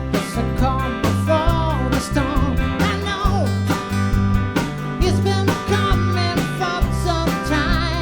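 A band playing a country-rock song: guitars and bass over a steady drum beat, with a wavering melody line above.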